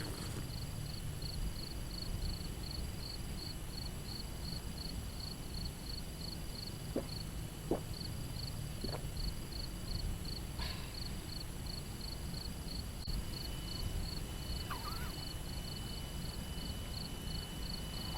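An insect, cricket-like, chirping in a steady high rhythm of about three pulses a second over a low outdoor rumble, with three short sharp cracks around the middle.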